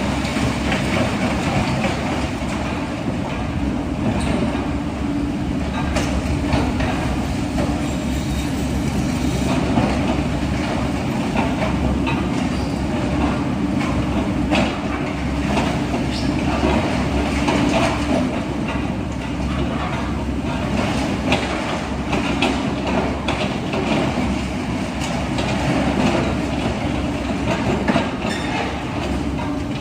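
Heavy tracked earthmoving machinery running steadily on diesel power, with repeated metallic clanks and knocks throughout.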